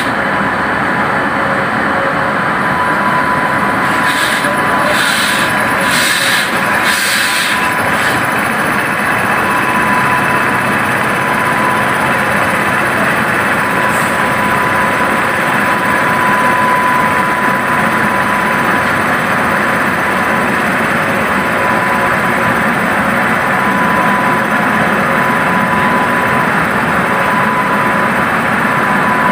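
Two electric trains running side by side, heard from an open coach doorway: steady rail and wheel noise with a steady high whine, and a few rhythmic hissing pulses a few seconds in.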